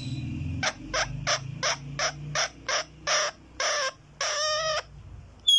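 A green pet parrot calling in a rapid series of short squawks, about three a second, ending in one longer call. A brief high chirp comes right at the end.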